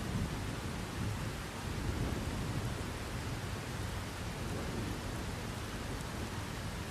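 Steady rain falling, with a low rolling rumble of distant thunder that swells in the first half and eases towards the end.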